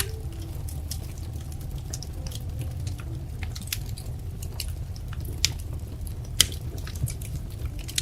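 Wood fire crackling: irregular sharp pops and snaps over a steady low rumble, with the loudest pop about six seconds in.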